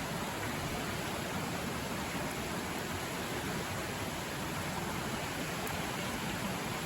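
A river's water rushing loudly, a steady, unbroken wash.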